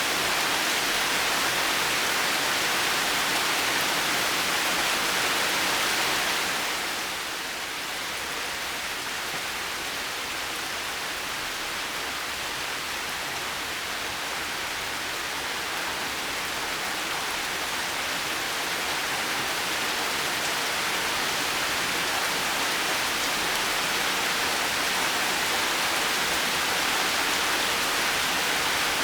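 Heavy rain falling as a steady, even hiss. It eases a little about seven seconds in and gradually builds back up over the following ten seconds or so.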